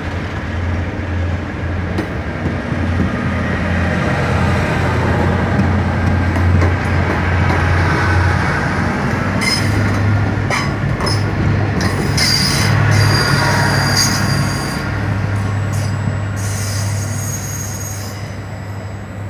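Trenitalia regional electric train running past along the platform: a steady low hum with wheel squeal and clicks over the rails from about halfway through, getting quieter near the end.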